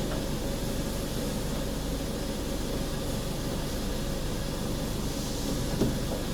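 Steady low hum and hiss of workshop background noise, with one short knock near the end.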